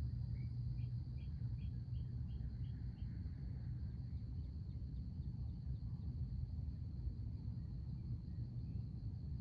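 Backyard ambience: a small bird calls a quick run of about eight short chirps in the first three seconds, with a few fainter chirps later, over a steady high insect drone and a constant low rumble.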